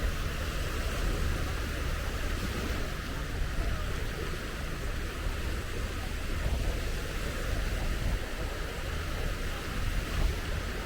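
Surf washing onto a beach in a steady wash of noise, with wind rumbling on the microphone.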